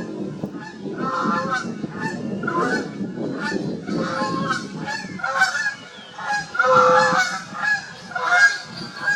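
Canada geese honking over and over, several calls a second and overlapping, with a low rushing noise under them for the first five seconds or so.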